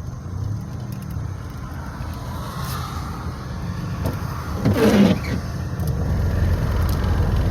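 Steady low engine and road rumble of a moving car heard from inside the cabin, growing slightly louder in the second half, with a brief louder rush of noise about five seconds in.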